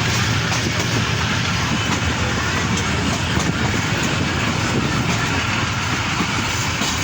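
Passenger train running along the track: steady noise of the coaches' wheels on the rails, with a faint clickety-clack.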